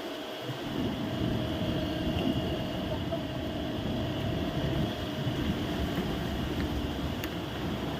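A steady engine drone: a constant whine over a low rumble that swells about half a second in.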